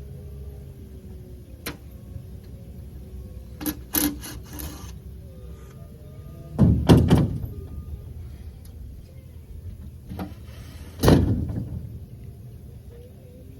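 Scattered knocks and thuds, several light ones and two heavy, booming ones about 7 and 11 seconds in, over a low steady rumble.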